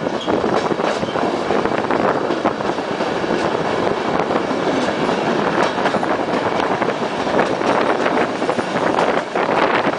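Regional passenger train running at speed, heard from a carriage window: a steady rush of wheel and rail noise with many short, sharp clacks throughout.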